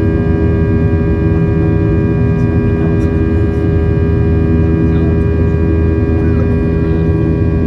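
Steady jet engine drone heard inside a Boeing 737's cabin during the climb after take-off: a low rumble under several steady humming tones.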